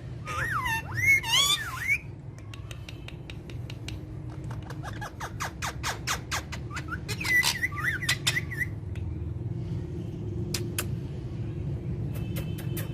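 Parrot calling with swooping, whistle-like squawks for the first couple of seconds, then a long run of rapid clicking sounds with a short squawk in the middle, and a few single clicks near the end.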